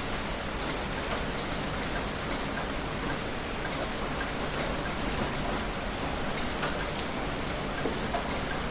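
Heavy rain falling steadily, with a dense patter of individual drops and no thunder.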